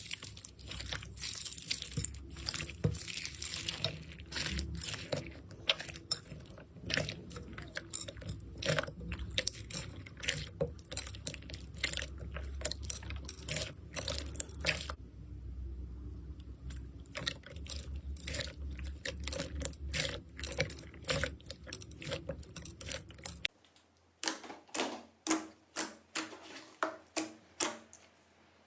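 Slime being pressed and kneaded by hand, a dense run of crackling pops and crunches. Near the end the sound cuts to a quieter clip with sharper clicks about two a second.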